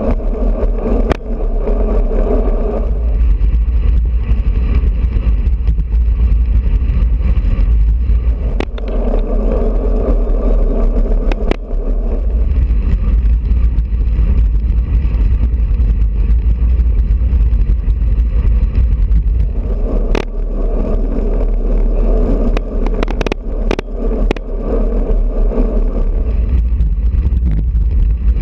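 Wind rushing over a camera microphone while riding a road bike, a heavy steady rumble. A pitched hum rises over it three times, and there are a few sharp clicks, several close together near the end.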